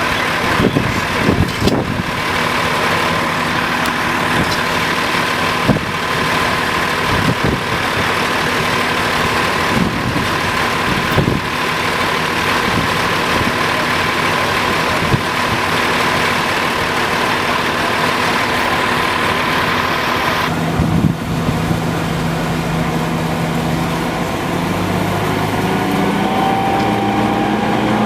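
Heavy truck engine idling, with a steady high whine over it that stops abruptly about two-thirds of the way through; near the end the engine note shifts and rises.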